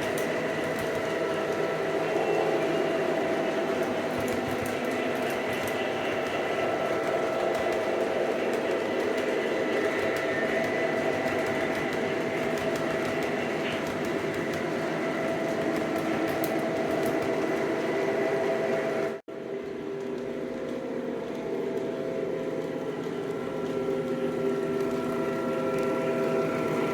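Lionel Legacy Southern E6 O-gauge model diesel locomotives running on track: a steady hum of motors and wheels with the locomotives' electronic diesel engine sound holding several steady tones. The sound cuts out for an instant about 19 seconds in, then resumes with a slightly different pitch.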